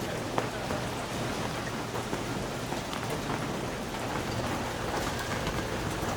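Steady rainfall, with many individual drops ticking on a surface and one sharper drop or tap about half a second in.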